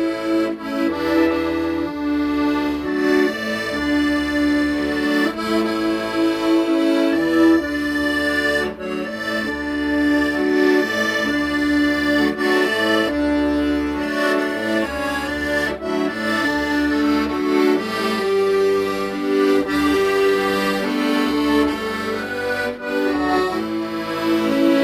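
Accordion playing a slow song melody in held notes over a steady, pulsing bass accompaniment.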